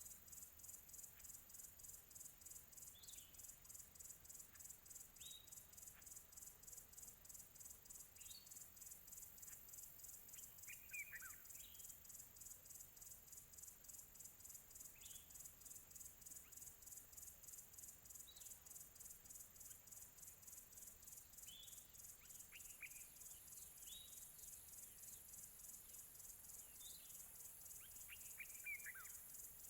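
Crickets chirping faintly in a steady, fast, pulsing trill. Short, falling bird calls come every few seconds, and twice, about eleven seconds in and near the end, a bird gives a quick run of falling notes.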